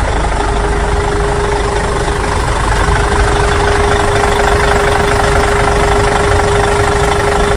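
A diesel-type heavy machine engine running steadily with a knocking rumble and a constant hum. It starts and stops abruptly.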